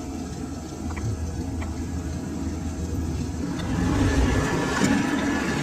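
A motor running steadily with a low hum, with a few sharp clicks, getting louder and rougher about four seconds in.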